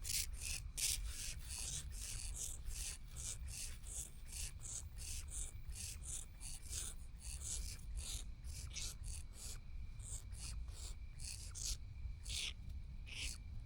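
Eastern grass owl chicks giving hissing, rasping begging calls, a quick series of short hisses about two to three a second.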